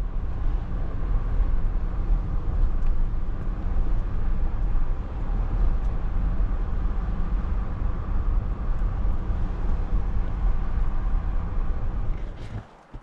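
Steady low rumble of a vehicle driving, road and engine noise; it drops away near the end.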